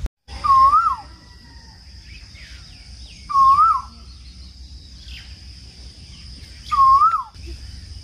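A bird calling: four loud, short whistled notes, each swooping up and then down, spaced a few seconds apart, over a steady high-pitched hiss.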